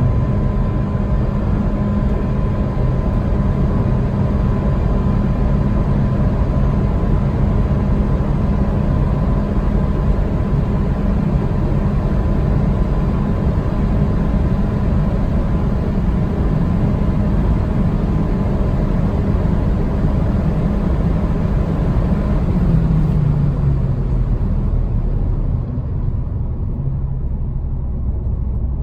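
Mitsubishi Lancer's 2.0-litre 4B11 four-cylinder with CVT running at a steady, constant pitch over loud road and wind noise while driving fast. About 23 seconds in, the engine note falls and the hiss fades as the car slows down.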